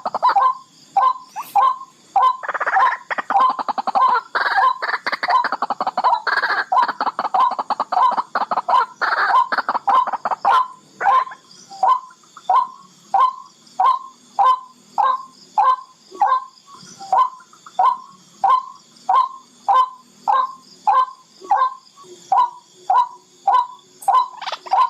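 Barred rail calling: a long series of short notes repeated at about one and a half to two a second. The notes run dense and overlapping through the first half, then settle into an even, regular beat.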